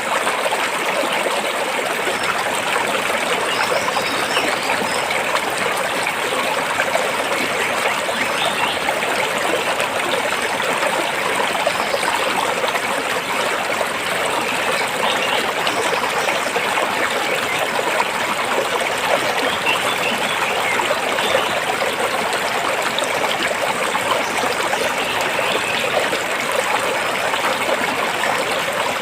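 A rocky stream flowing steadily, water rushing and splashing between stones.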